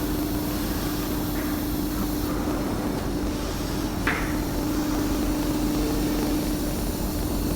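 ATC CNC router with a 9 kW spindle running while cutting wood, a steady hum with one constant tone over machining noise, and a brief tick about four seconds in.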